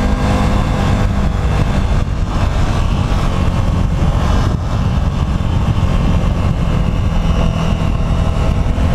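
Motorcycle engine running steadily while riding in traffic, with a dense low rumble under the engine note.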